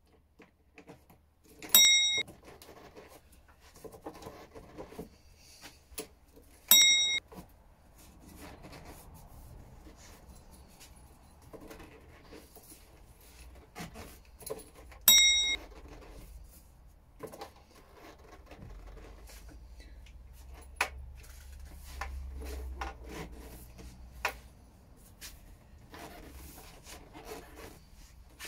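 Keys jangling and clicking in a 1987 Honda CBR750 Hurricane's seat lock as the key is worked and the seat is tugged at, with rustling handling noise. Three times, about 2, 7 and 15 seconds in, a loud clear chime rings, the same each time: a ding that counts each key turn.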